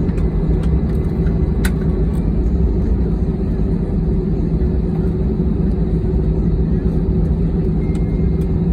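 Steady low rumble of airliner cabin noise just after landing, the jet engines and airflow running with a faint hum, and a single sharp click about two seconds in.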